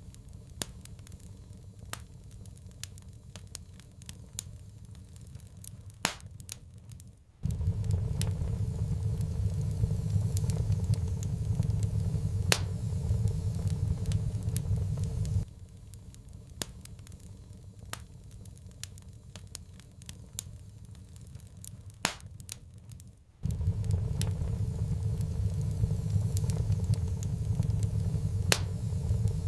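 Wood fire crackling in a fireplace, with scattered sharp pops. A low rumble under the crackle switches on and off abruptly about every eight seconds.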